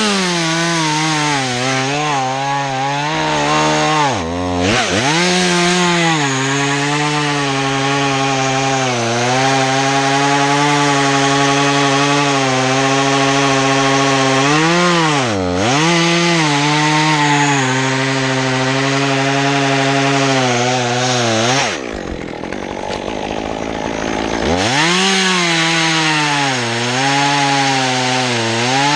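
Stihl MS 201 T top-handle two-stroke chainsaw running at high revs as it cuts limbs into short pieces. The engine pitch sags briefly under load several times. About two-thirds of the way through it falls away for a couple of seconds, then revs up and cuts again.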